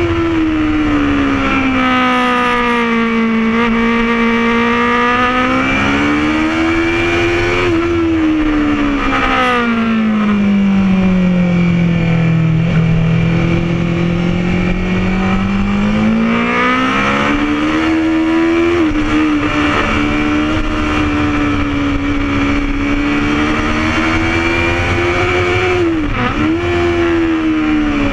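Honda CBR1000 inline-four engine at full ride on a race track, heard from the bike itself. Its note falls as the bike slows about eight seconds in, climbs again under throttle, and dips sharply and recovers at gear changes at the start and near the end, with wind noise underneath.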